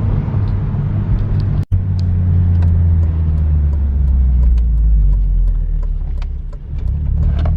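2006 Honda Civic's engine and Vibrant cat-back exhaust droning low and steady while driving, easing off briefly near the end. The sound cuts out for an instant about two seconds in.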